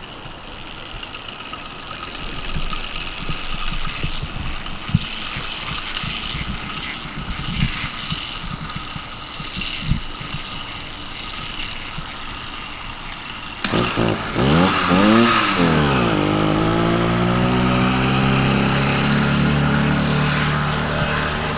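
A stock 66cc two-stroke motorized-bicycle engine fires up suddenly about two-thirds of the way in, revs up and down, then settles into a steady run that slowly climbs in pitch. Before it, only a rustling noise with a few knocks.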